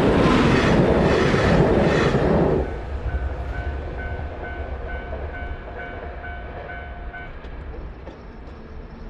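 A train passing over a Japanese level crossing, its loud wheel noise rolling with a regular beat, ends about two and a half seconds in. Then the crossing's electronic warning bell rings on its own, about twice a second, and stops near the end.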